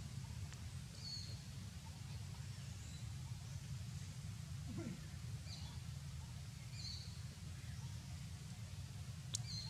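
Outdoor ambience: a steady low rumble with a few short, high bird chirps spread through it, and one faint falling call about halfway through.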